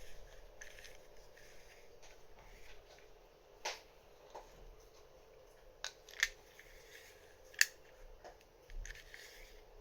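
Light handling and turning of a LaGard 2200 combination safe lock's mechanism during reassembly, with a few sharp small clicks a second or two apart.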